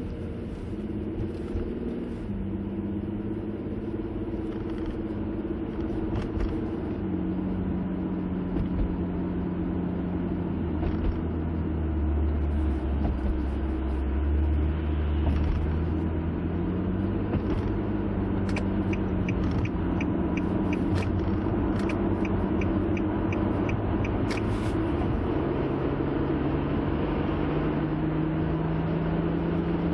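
Car engine and tyre rumble heard from inside the cabin as the car pulls away from a toll gate and accelerates up an expressway ramp, the engine note climbing and dropping back several times as it shifts gears. A run of evenly spaced clicks comes in about two-thirds through.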